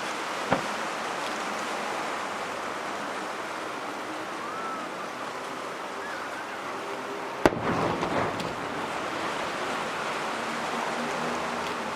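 A firework shell bursts with a single sharp bang about seven and a half seconds in, followed by about a second of crackling, over a steady rushing background noise. A much fainter pop comes near the start.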